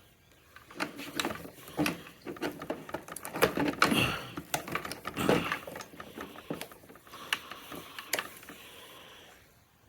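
Irregular clicks, taps and light metallic rattles of hands working on a scooter's handlebar controls, loosening and fitting parts. It quietens near the end.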